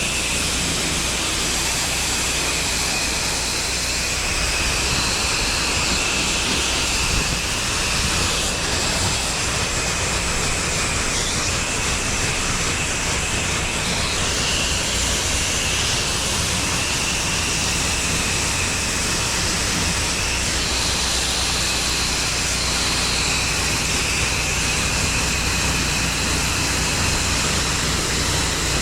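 Pressure washer running, its high-pressure spray hissing steadily, with a high whine that shifts slightly in pitch.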